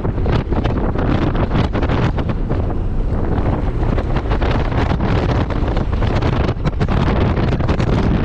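Heavy wind buffeting on the microphone, gusting irregularly and covering the sound of the moving car underneath.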